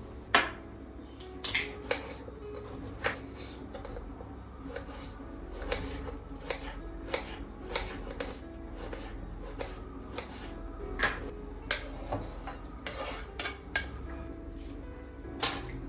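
Kitchen dishes and utensils clinking and knocking at an irregular pace, about one to two sharp clinks a second, the loudest near the start and near the end, over soft background music.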